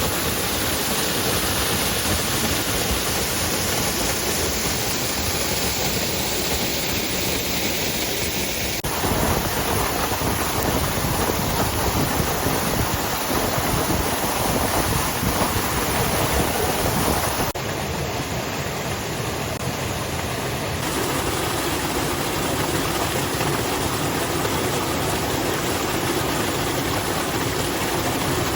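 Rushing water of a creek: a steady, loud noise of moving water that changes abruptly in tone twice, about nine and seventeen seconds in.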